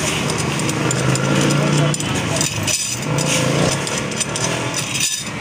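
A small motorcycle engine running at a steady pitch. It drops away about two seconds in and comes back briefly about three seconds in, with a few light metallic clicks.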